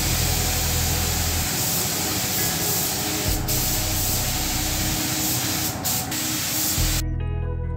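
Air spray gun spraying paint in a steady hiss, cutting off abruptly about seven seconds in as guitar music starts.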